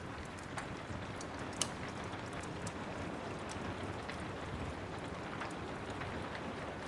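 Steady rain with a wood fire crackling over it: scattered sharp pops and snaps, the loudest about a second and a half in.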